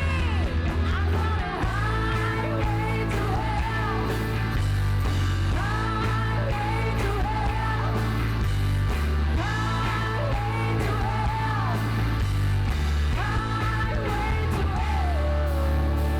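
Rock band playing a song with a lead singer, who sings in phrases of long held notes over steady bass, drums and guitar.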